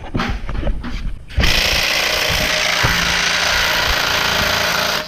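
An impact wrench hammering steadily for about three and a half seconds, loosening bolts, then stopping abruptly. A few light metallic knocks come before it starts.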